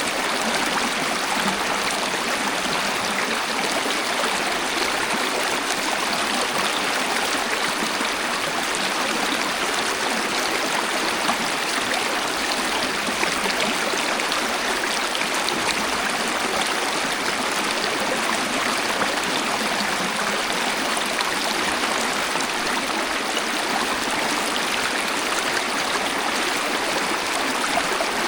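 Waterfall: a steady, unbroken rush of falling and flowing water, even throughout, with little deep rumble.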